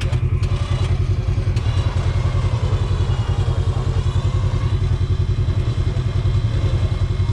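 Off-road side-by-side's engine idling steadily with an even, pulsing low beat, plus a few light clicks and clatters.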